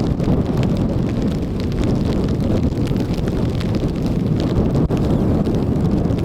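Strong wind buffeting the microphone in a steady rumble, with raindrops striking a tarp as scattered small ticks.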